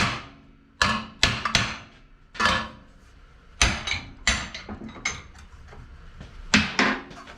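Hammer blows on bent steel stock, about eight sharp strikes at an irregular pace, each with a short metallic ring: knocking an overbent end back into line.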